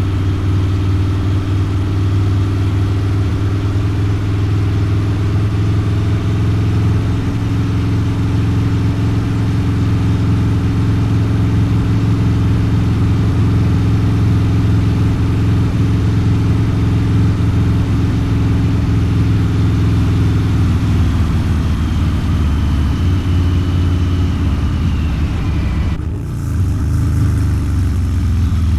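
Harley-Davidson Low Rider's 129-cubic-inch V-twin running under way through a Two Brothers Racing exhaust, a steady, even engine note. About 26 seconds in the sound dips briefly, then picks up again.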